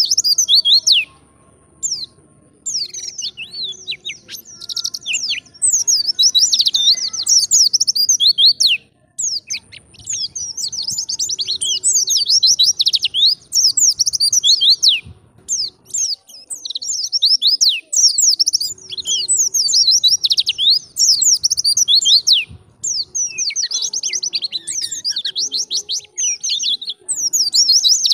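White-eye (pleci) singing a fast, high-pitched twittering song in long runs of rapid chirps, with a couple of brief pauses.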